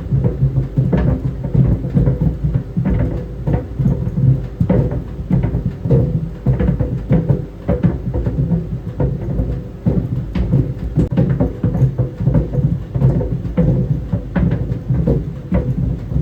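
Tennis balls tumbling in a running clothes dryer, thudding irregularly against the drum several times a second over the machine's steady low hum.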